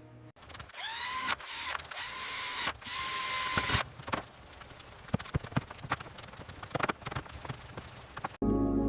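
Mechanical whirring with a rising whine for the first few seconds, then a run of scattered light clicks and ticks.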